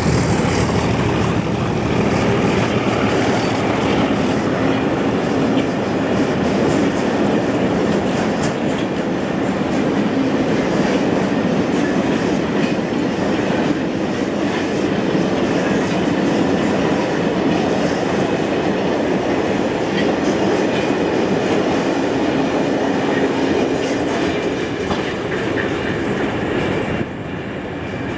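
Trains passing close by on the rails: a continuous rumble of wheels with clickety-clack over the rail joints, dropping away near the end as the last wagons go past.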